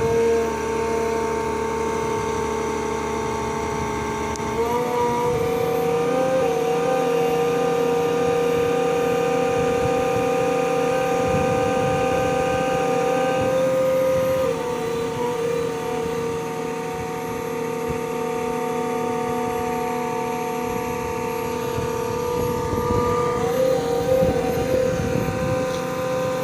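Putzmeister concrete pump running with a steady mechanical whine. Its pitch steps up about four seconds in, drops back about halfway through, and rises again near the end, as its speed changes.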